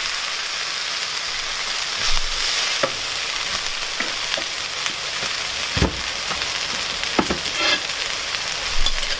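Sliced onion half-rings sizzling in a frying pan, a steady hiss, with a few short knocks, the loudest about six seconds in.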